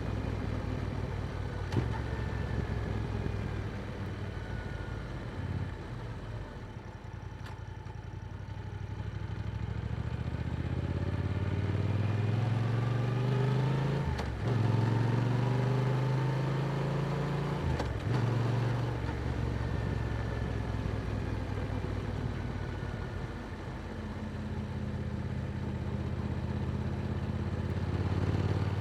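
Yamaha R7's parallel-twin engine through an Akrapovic exhaust, pulling up through the gears with brief breaks in the sound at two shifts about halfway through, then settling into a steady cruise.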